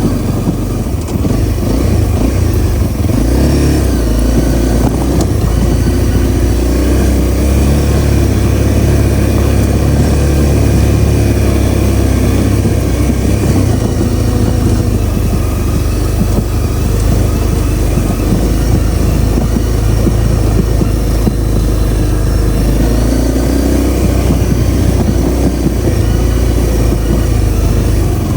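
Honda CRF250L's single-cylinder four-stroke engine running steadily while the motorcycle is ridden, its pitch shifting a few times with the throttle.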